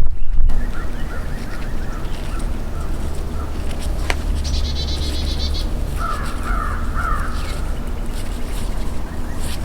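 Birds calling, with repeated harsh calls and a fast, high trill about halfway through, over a steady low rumble.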